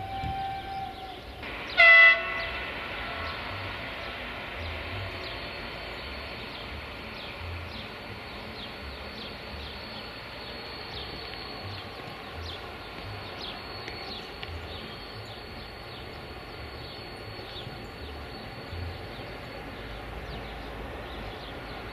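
Softronic Transmontana class 480 electric locomotive sounding one short horn blast about two seconds in, then its freight train rolling on: a steady rumble of wheels on rail with scattered light clicks and a faint steady high whine.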